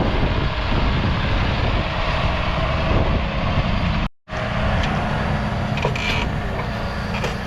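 John Deere 6155R tractor's 6.8-litre six-cylinder diesel running steadily, broken by a short dropout about four seconds in where the recording cuts.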